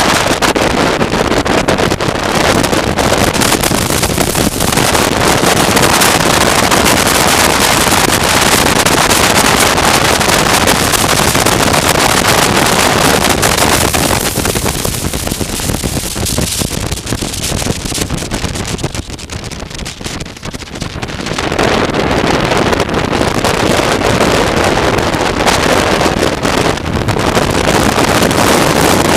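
Wind rushing hard over the microphone of a motorcycle on the move, mixed with the bike's running noise. It eases off for a few seconds about two-thirds of the way through, the sign of the bike slowing, then builds back up as speed returns.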